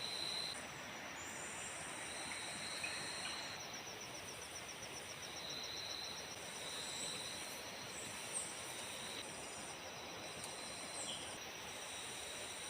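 Forest insects trilling in several high, steady bands that start and stop every few seconds, one of them a fast pulsing trill, over an even steady hiss. A few faint short chirps come through.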